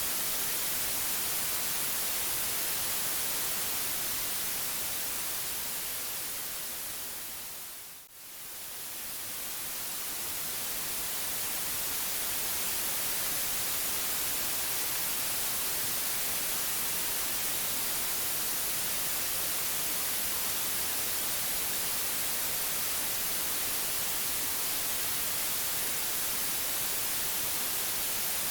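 Steady white-noise hiss, even across the range and brightest in the treble, which fades down to a brief low point about eight seconds in and swells back up over the next few seconds.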